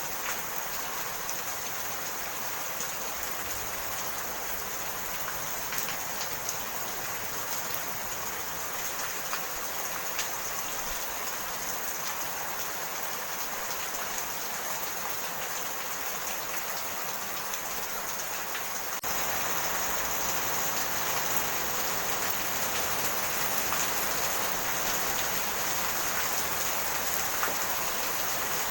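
Steady rain falling, a continuous hiss with scattered drop ticks. About two-thirds of the way through it suddenly becomes louder and fuller, as if it were heavier rain.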